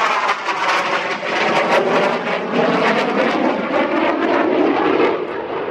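An aircraft flying past at an airshow display, loud, its pitch sliding steadily lower as it goes by and away.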